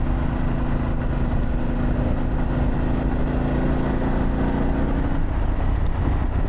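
Harley-Davidson Pan America's Revolution Max 1250 V-twin with a Vance & Hines exhaust running steadily under way, over heavy wind rumble. The engine note eases off about five seconds in.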